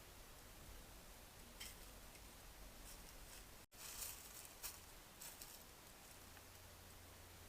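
Near silence with a few faint, brief rustles, clustered around the middle, where the sound also drops out for an instant.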